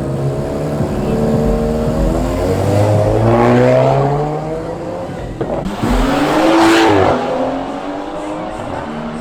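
Car engine revved hard during a smoky burnout. Its pitch climbs steadily over the first few seconds, then surges up and falls back again near the end. The loudest moments come with a rush of tyre and exhaust noise.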